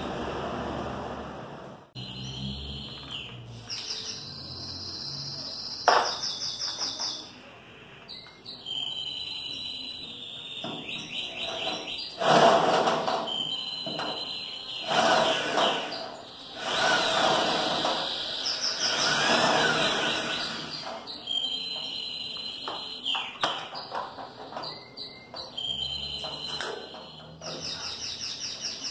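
A bird chirping repeatedly in short, high calls every few seconds, with several louder stretches of noise in the middle from work on the pickup's tailgate.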